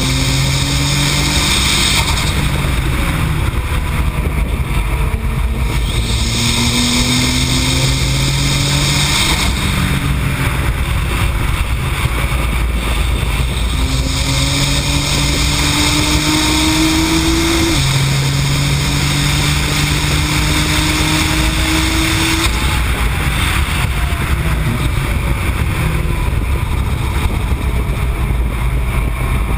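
Nissan GT-R's twin-turbo V6, tuned to the AAM-800+ package, pulling hard on track: its pitch climbs over several seconds and drops at each gear change, again and again. Heavy wind and road noise rush over it throughout.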